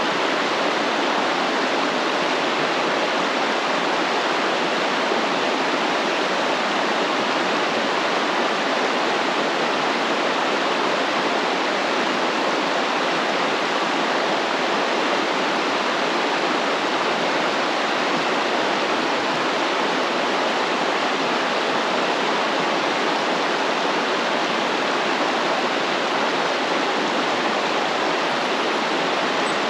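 Stream water flowing and rushing steadily, an even hiss-like wash with no breaks.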